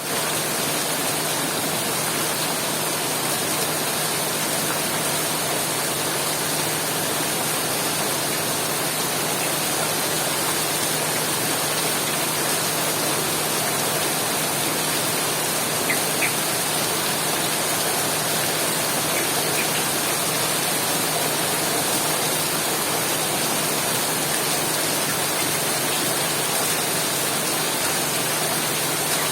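Heavy rain falling steadily, a dense even hiss, with a faint steady low hum underneath.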